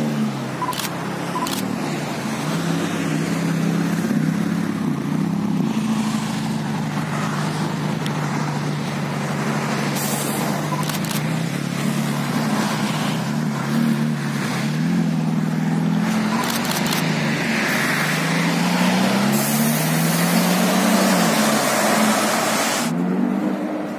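Ferrari Roma's twin-turbo 3.9-litre V8 running at low revs, its note rising and falling a little as the car creeps forward and waits. Road traffic passes, with the noise of a passing lorry swelling near the end.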